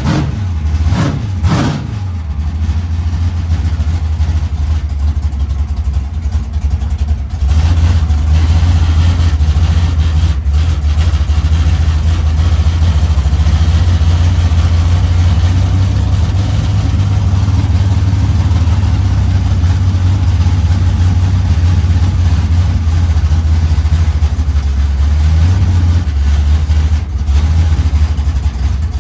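Mustang drag car's engine blipped twice at the start, then running with a deep, steady rumble that gets louder from about seven seconds in as the car drives, with a small rise in revs near the end.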